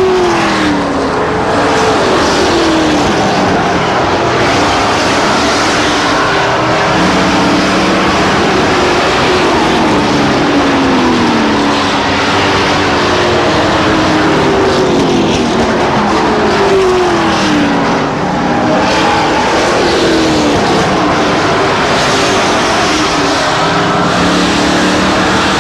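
A field of racing pickup trucks running at speed on a short oval track. The engine notes drop in pitch again and again as trucks go by, every couple of seconds, over a steady wash of engine and track noise.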